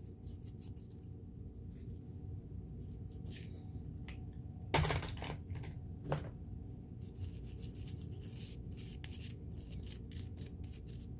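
Small clicks, scrapes and light knocks of metal sewing machine parts being handled and fitted, with two louder knocks about five and six seconds in, over a steady low hum.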